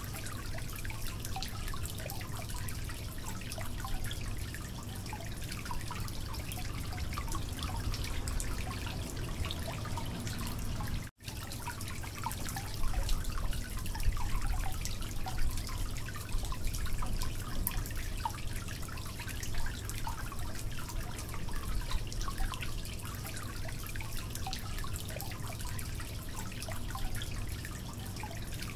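Potatoes and cauliflower sizzling in a steel kadai, a steady crackle of many small pops over a low hum. The sound drops out briefly about eleven seconds in, and the popping is a little louder for a few seconds after.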